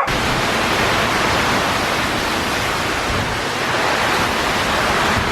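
Heavy rainstorm: rain pouring down with strong wind, a steady loud rushing noise.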